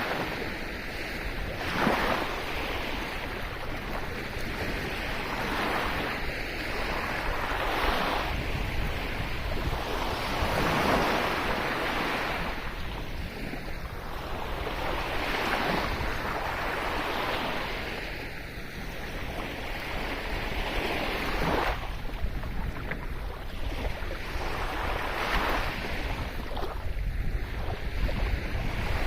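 Sea waves breaking and washing up a shore, one rushing surge after another every few seconds, with a steady wash of surf in between.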